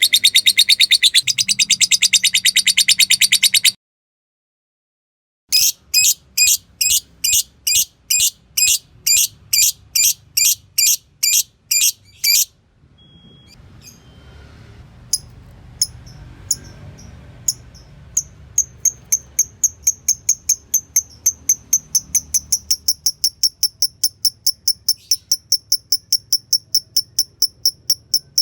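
Fighter lovebird calling: a fast chattering trill (ngekek) that cuts off about four seconds in, then a run of sharp repeated chirps at about two a second. After a quieter stretch of scattered clicks, fast high ticking calls (ngetik) at about four a second.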